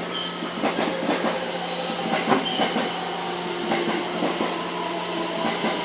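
Electric train heard from inside the cab, moving slowly: scattered wheel clicks on the rails and several short high-pitched wheel squeals over a steady low hum.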